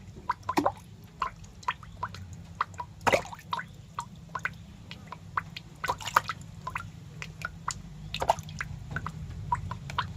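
Irregular wet clicks and drips, a few a second with a handful of louder squelchy ones, over a low steady hum.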